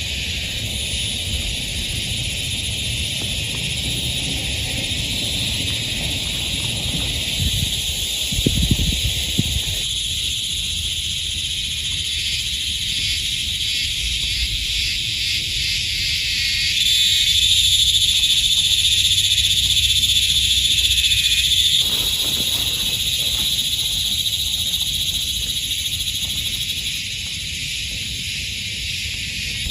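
A dense chorus of frogs calling steadily in wet forest, growing louder for about five seconds past the middle, over a low background rumble. A few soft knocks come about eight seconds in.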